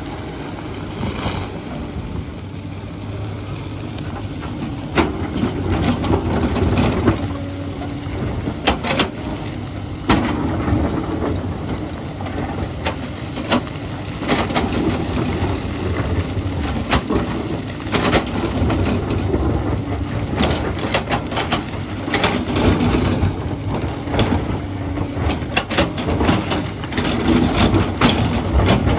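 Hyundai excavator's diesel engine running under load, rising and falling as it works, with frequent sharp knocks and clanks of rock and the bucket spread throughout.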